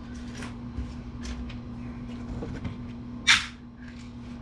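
Disassembled computer parts being handled on a workbench: light clicks and knocks, then one short, louder scrape or clatter about three seconds in, over a steady low hum.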